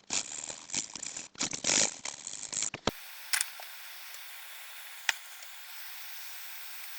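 Small rustling and scraping noises of tweezers and parts being handled at the bench for about three seconds. Then a hot-air rework station blows a steady hiss of air to reflow a small capacitor onto the board, with one sharp click about five seconds in.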